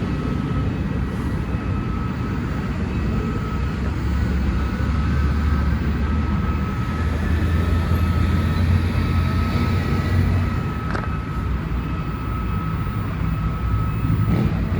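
GE diesel-electric locomotive (Thai railway GEK class) passing with its engine running, a deep steady rumble that grows loudest in the middle and eases off. A steady high tone runs throughout, and there is a single sharp click about eleven seconds in.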